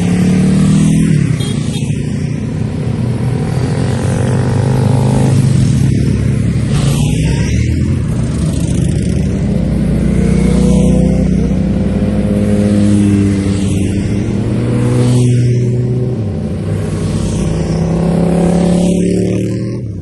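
Motorcycle engine pulling through the gears, its pitch climbing and then dropping at each shift several times, over a steady rush of wind.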